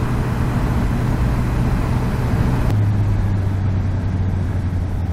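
Honda CBR650F inline-four engine running at a steady cruise under wind and road noise, heard from on the bike. Nearly three seconds in, the engine note drops and the wind noise eases as the bike slows.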